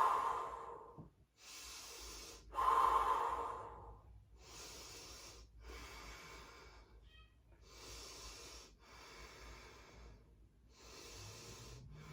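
A woman breathing deeply and audibly, a slow run of in- and out-breaths about a second long each, the first two louder than the rest.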